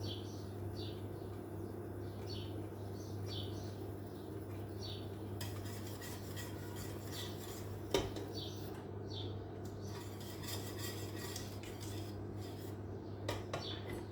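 Kitchen utensils clinking and scraping against dishes, with one sharp clink about eight seconds in and a couple more near the end, over a steady low hum.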